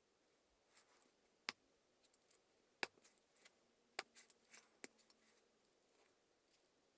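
A few faint, sharp clicks and taps, about half a dozen in all, with a small cluster near the middle, from small tools or die-cast and plastic model parts being handled.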